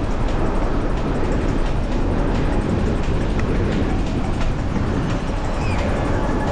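Steady rushing noise of wind over the microphone and a beach cruiser bicycle rolling along sand, heaviest in the low rumble, with faint scattered ticks and rattles.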